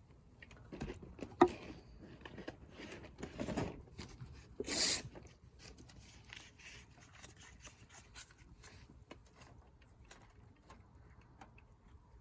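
Wood fire crackling in a fire-pit stand: scattered small pops and ticks, with a sharp snap about a second and a half in and a brief louder rush of noise about five seconds in.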